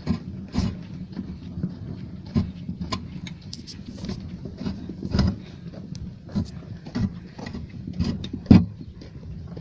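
Hand cart with a person riding in it, rolling over a rough dirt road: a steady low rumble from the wheels with irregular knocks and clatters as it bumps along, the loudest about three-quarters of the way through.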